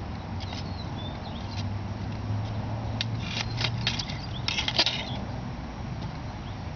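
Homemade lamina flow Stirling engine running on charcoal heat: a steady low hum with scattered, irregular light clicks and ticks.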